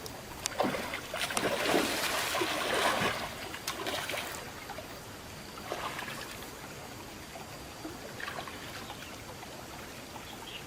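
Water splashing and sloshing for about four seconds, then a couple of brief smaller splashes, over a steady background of running water.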